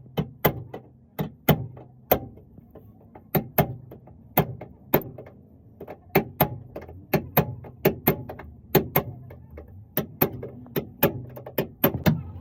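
Sharp, irregular taps, about two or three a second, of a hammer and knockdown tool on a car body panel during paintless dent repair.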